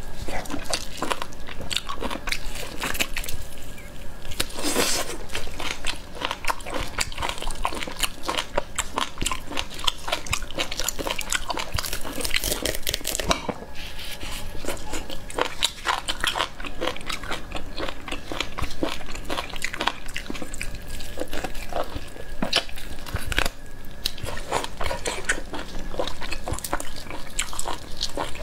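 A person biting and chewing spicy beef ribs close to the microphone, tearing the meat from the bone by hand: a dense run of small clicks and mouth noises with no pause.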